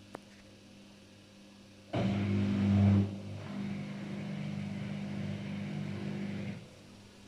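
Daewoo DWD-FT1013 washing machine working through its rinse: a faint click, then about two seconds in it starts running with a steady hum and a rushing noise, loudest for the first second. It runs on evenly for about four more seconds and cuts off suddenly near the end.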